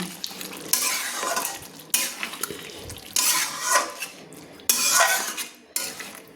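Spatula scraping and stirring thick chicken curry in a kadai, in about four separate strokes with short pauses between them, against a faint sizzle from the pan.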